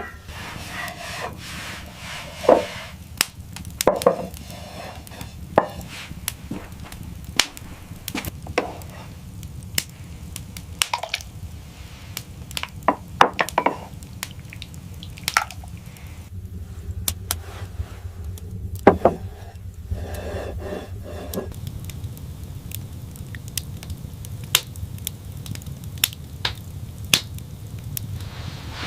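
Irregular sharp chopping knocks, some single and some in quick clusters, over a steady low rumble.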